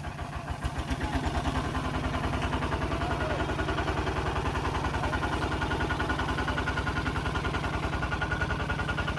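Tractor engine running steadily with an even beat, growing louder about a second in.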